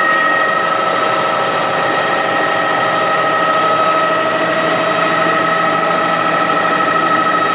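Helicopter in flight heard from inside the cabin: a steady engine and rotor drone with constant high whining tones over it.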